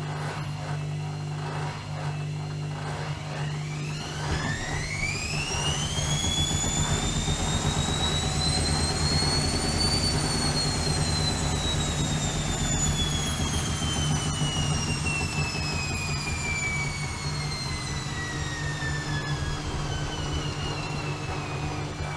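Bauknecht WAK 5750 G washing machine's brushed motor whining as the drum spins, running on a fresh pair of carbon brushes. The whine climbs in pitch for about six seconds, peaks about halfway through, then falls slowly as the drum slows, over a steady low hum.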